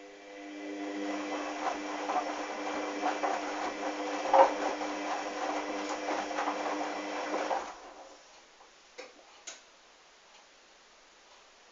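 Hoover washing machine's motor turning the drum during a wash, a steady motor whine under clicking and sloshing, rising over the first second; it stops after about seven and a half seconds, followed by two faint clicks.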